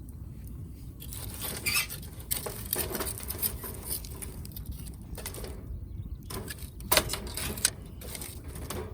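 Firewood burning in a fire stand, crackling with sharp irregular pops over a low steady rumble. The crackling starts about a second in, with louder pops about two seconds in and again near the end.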